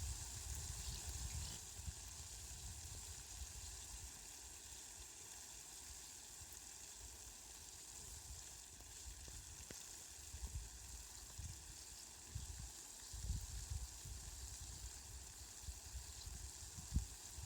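Steady rain falling, an even hiss throughout, with low rumbles that rise and fall a few times.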